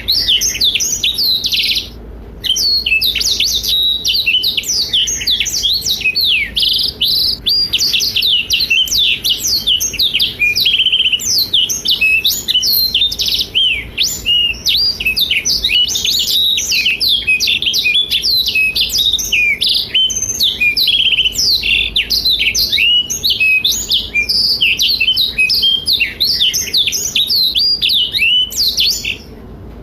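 Black-throated canary (blackthroat) in full song: a fast, unbroken stream of high chirps, trills and warbles, with a brief pause about two seconds in and another near the end.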